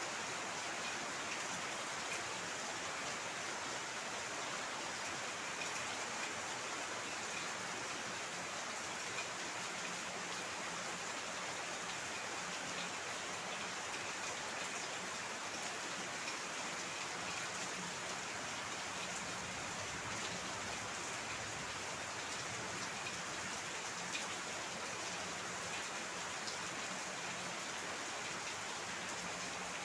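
Steady heavy rain falling and pattering on surfaces, with no let-up.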